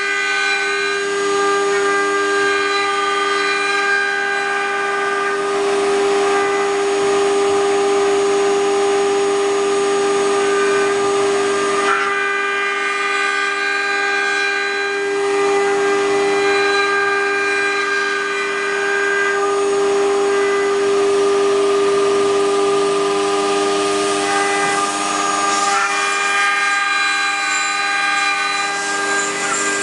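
High-speed spindle of a 4-axis CNC wood router whining steadily at one high pitch, with the hiss of the cutter in the wood underneath, changing in texture every several seconds as the cut moves along.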